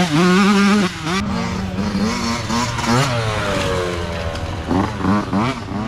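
Several small youth dirt bike engines revving and changing pitch as they race past; one engine's pitch falls away steadily about three to four seconds in as it goes by.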